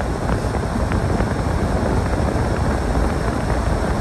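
Snowstorm wind buffeting the microphone: a steady, fluttering low rumble.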